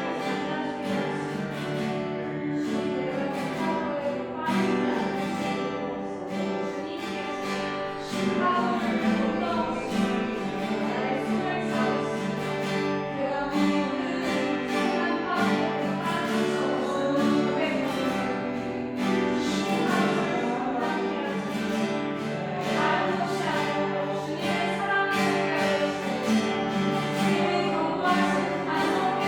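Live worship music: voices singing over guitar accompaniment, growing louder about eight seconds in.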